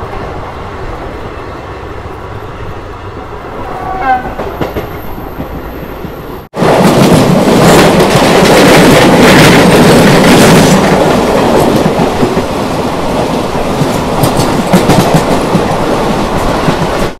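Indian Railways express train running on the track, wheels clattering over the rails, with a short horn blast about four seconds in. After a sudden cut, a much louder rush of wheel and wind noise with rapid clicking.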